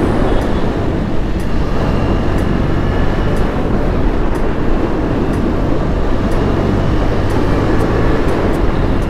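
KTM 250 Duke's single-cylinder engine running steadily while riding, mixed with wind rushing over the helmet microphone.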